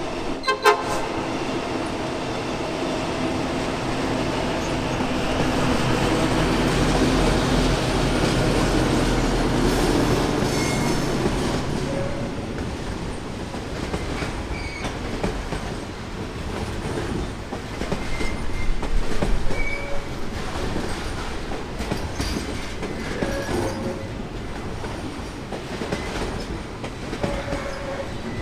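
A pair of VL class diesel locomotives passing, their engines running under load, with a sharp knock about a second in. The freight wagons then roll by with a rhythmic clickety-clack over the rail joints and several short, high wheel squeals.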